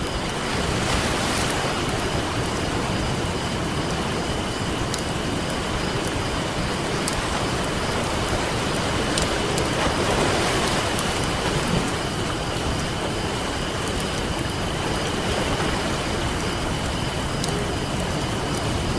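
Campfire crackling with scattered sharp pops over ocean surf washing in, the waves swelling about a second in and again around ten seconds in. A faint steady high tone runs underneath.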